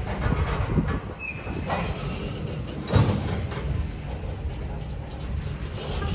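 Train rolling past with a steady low rumble and several sharp clunks, the loudest about halfway through. A short high squeal comes a little over a second in.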